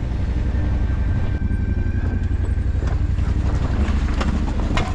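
Motorcycle engine running with a steady low rumble, mixed with wind noise on the microphone; a sharp knock near the end.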